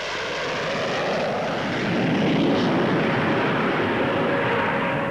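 Gloster Javelin's twin Armstrong Siddeley Sapphire turbojets roaring as the jet fighter flies past, swelling to its loudest about two seconds in and then easing off, with a steady whine coming in near the end.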